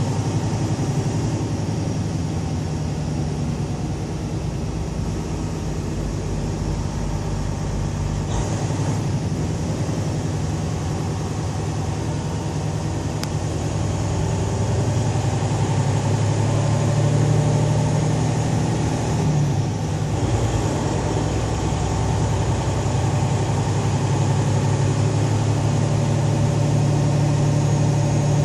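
Semi truck's diesel engine running with a steady low drone, its pitch shifting slightly about two thirds of the way through.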